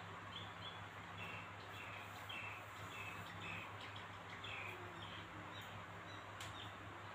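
Faint chirping of small birds: a quick run of short, high notes over the first five seconds or so, over a steady low hum and hiss, with one sharp click about six and a half seconds in.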